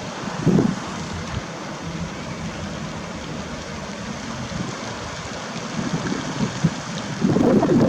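Steady hiss of wind and water at the lakeshore, with wind buffeting the microphone in heavy gusts near the end.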